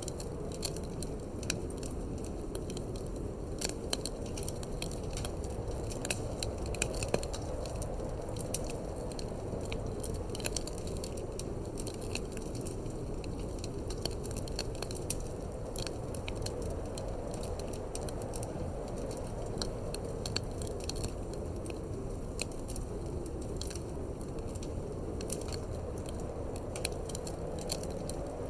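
Wood fire in a fireplace crackling, with frequent irregular sharp pops, over a steady low rushing of wind.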